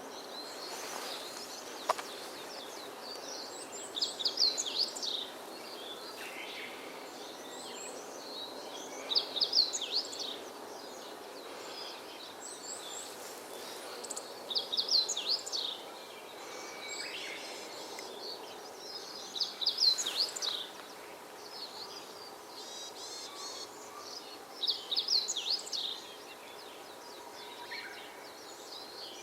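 Meadow bunting (Emberiza cioides) singing: a short, rapid phrase of high notes about every five seconds, five times, over steady background noise.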